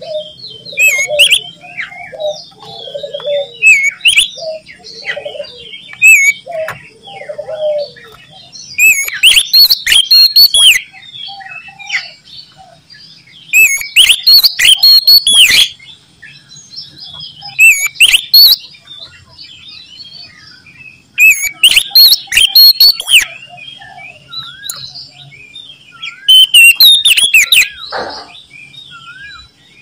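Oriental magpie-robin (kacer) singing loudly in repeated bursts of fast, varied whistled phrases. There are about five bursts, each a second or two long, with softer calls and chatter between them.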